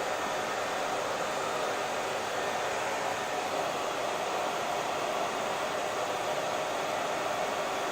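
Hair dryer running steadily: an even whooshing blow of air and motor noise with no change in speed.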